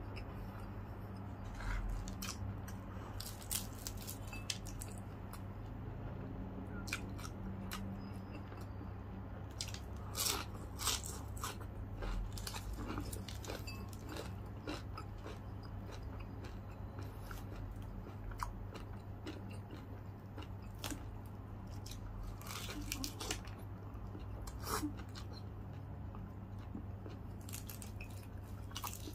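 Close-miked chewing and crunching of crispy deep-fried chicken, sharp crackles coming at irregular moments, loudest about ten seconds in.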